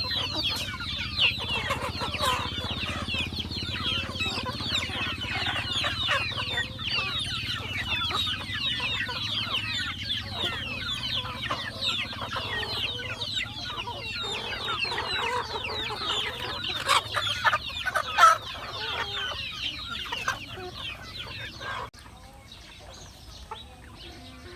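A flock of chickens calling: many short high peeps with clucks mixed in, which drop away sharply near the end.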